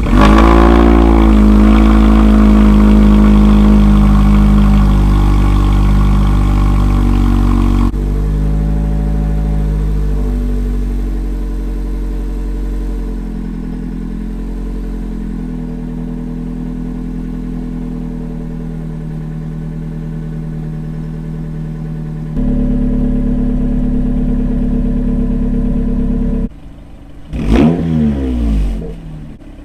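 Toyota Camry engine running through aftermarket exhausts. It comes in loud and steady at the start, and the drone changes abruptly a few times as one exhaust gives way to another. Near the end come several quick revs that rise and fall.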